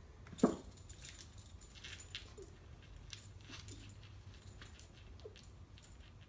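Cats scuffling: a loud, short cry falling in pitch about half a second in, then light rattling and scratching clicks with a few brief faint cries.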